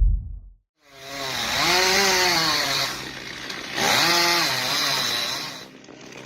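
Chainsaw engine revving up and down twice, then easing back to a lower, quieter run near the end. A short low boom fades out just before it starts.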